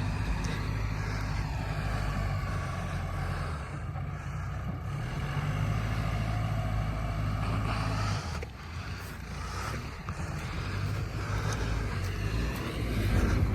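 Excavator's diesel engine running, its note dipping and rising a few times as it works.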